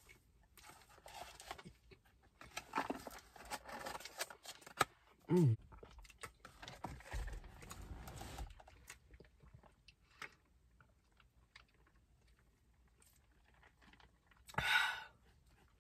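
A person chewing a mouthful of Big Mac, close to the microphone, with soft crackly mouth noises. About five seconds in comes a short hummed "mm". Near the end there is a brief, louder rushing sound.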